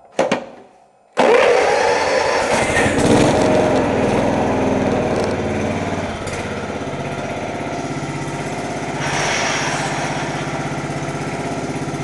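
A John Deere 130 lawn tractor's Kawasaki FC290V single-cylinder engine running after a cold start. A brief loud noise, then the engine comes in suddenly just over a second in, high at first and settling to a steady, even run within about five seconds.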